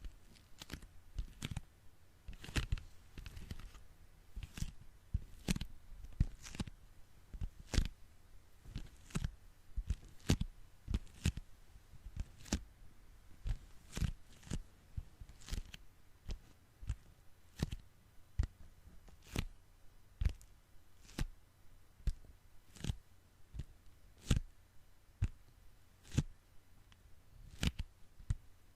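Sticky hands pressed together and pulled apart over and over, each release a short crackling peel, at an uneven pace of about one or two a second.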